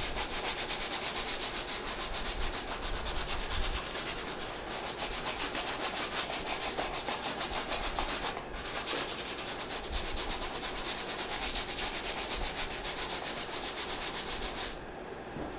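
Soft-bristle brush scrubbed quickly back and forth over a sneaker's suede upper, working in freshly sprayed suede protector. It is a steady, rhythmic rubbing with a brief pause a little past halfway, and it stops just before the end.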